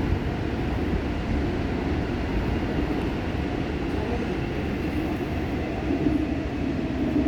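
Busan Metro Line 1 subway train running at speed between stations: a steady, continuous rumble of wheels on rail with a faint steady whine above it, heard from inside the car.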